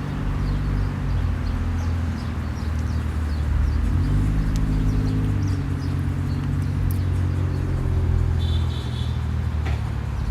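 A motor vehicle's engine running steadily close by, its pitch shifting about four seconds in, with faint short high chirps over it.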